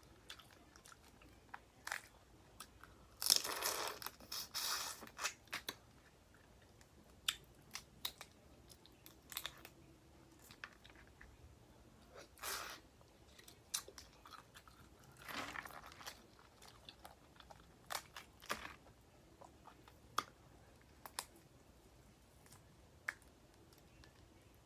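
Close-up eating of boiled crawfish: shells cracking and crunching, with chewing. Irregular sharp snaps, with two longer crunchy stretches about three seconds in and again about fifteen seconds in.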